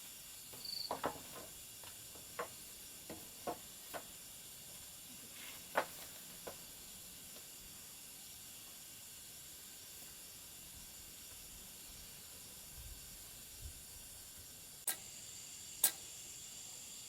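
Light, irregular knocks and taps, about eight of them in the first six or seven seconds, then two sharp clicks a second apart near the end, over a faint steady high hiss.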